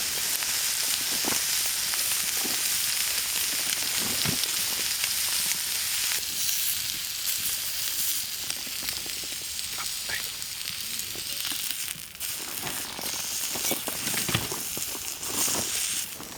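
Food sizzling and frying in a hot pan, a steady spattering hiss, with a few light knocks of a cooking utensil.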